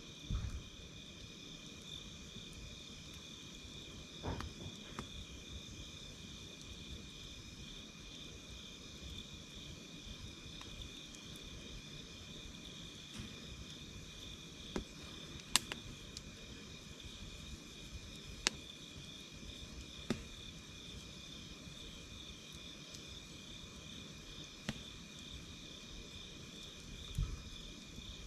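Night insects singing in a steady chorus, one high chirr pulsing fast. Beneath it, a campfire crackles softly with a few scattered sharp pops.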